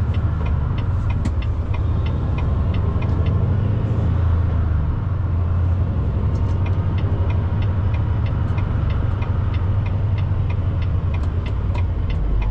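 Semi truck's diesel engine running steadily with a deep rumble, heard from inside the cab. From about six seconds in, a rapid, even clicking joins it, roughly three ticks a second.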